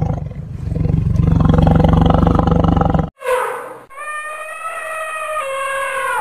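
Tiger roaring: a loud, low, rumbling roar lasting about three seconds that stops abruptly. Then an elephant trumpets, first a short call and then a long high call held near one pitch.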